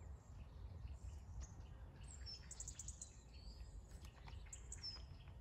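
Faint outdoor quiet with a few short, high songbird chirps, the clearest about two seconds in and again near the end, over a low steady rumble.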